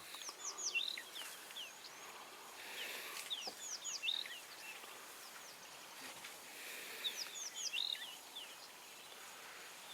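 A songbird singing the same phrase of quick, high, swooping notes three times, a few seconds apart.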